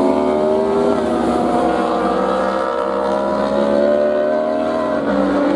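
Several racing motorcycle engines running hard together, their overlapping pitches rising slowly, with a drop near the end.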